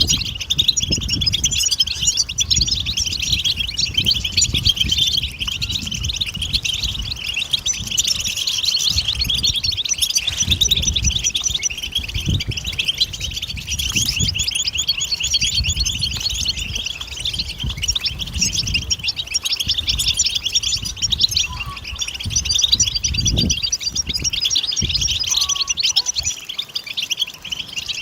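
European goldfinch song: a rapid, unbroken twittering of high tinkling notes, with a low rumble underneath.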